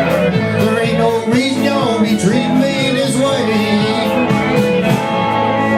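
Country band playing an instrumental passage after the last sung line, guitar to the fore over a steady beat.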